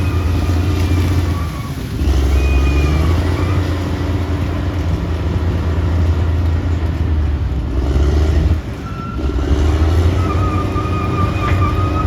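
Caterpillar D6R XL bulldozer's diesel engine running under load with a steady low drone, easing off briefly twice, about a second and a half in and again past eight seconds, then pulling back up. A thin high whine comes and goes over the engine.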